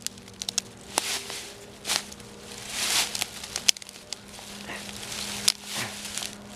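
Dry leaves and sticks crackling and rustling as they are handled and stepped on, with several sharp twig snaps.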